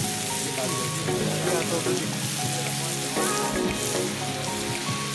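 Sliced onions and chopped greens frying in an iron wok over a wood fire, sizzling steadily. Background music with held notes plays alongside.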